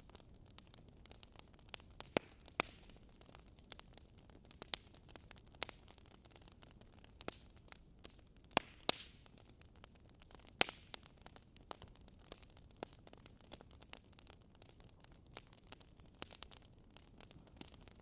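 Burning firewood crackling: irregular sharp pops and snaps over a faint steady hiss, with a few louder pops about two seconds in and around the middle.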